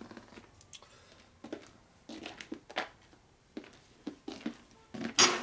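Metal engine parts handled on a workbench: scattered light clicks and knocks, with a louder metallic clank near the end.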